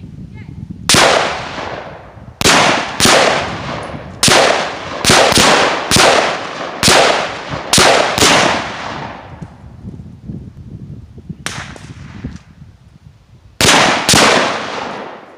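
Gunfire: about ten shots in an irregular run, some close together, then a pause of a few seconds and three more shots near the end, each with a short echoing tail. The shooters include an AR pistol.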